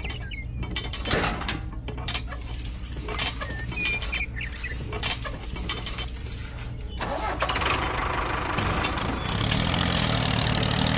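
A small motor of a DIY miniature tractor runs steadily with a low hum, under scattered clicks and rattles. About seven seconds in it gets louder and busier, a continuous rattling run.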